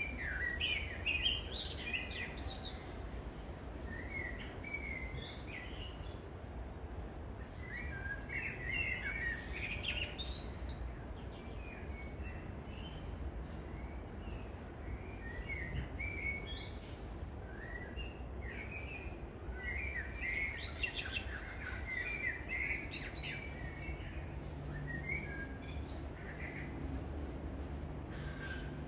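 Birds chirping and calling in short repeated phrases, over a steady low rumble.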